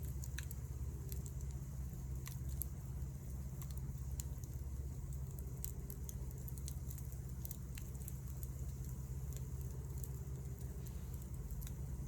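Wood fire crackling: sparse, irregular sharp pops and ticks over a steady low rumble.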